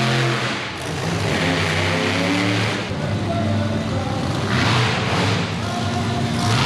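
Monster truck engine running and revving repeatedly, its pitch rising and falling with each surge of throttle.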